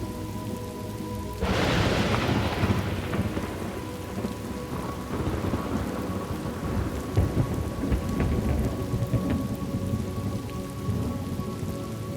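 Steady rain ambience, with a thunderclap breaking in about a second and a half in and rumbling away over the next few seconds.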